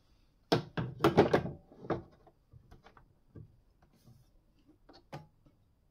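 Metal portafilter knocking and scraping against the group head of a Breville Barista Max espresso machine as it is pushed and twisted to lock it in: a cluster of loud knocks in the first two seconds, then scattered light clicks.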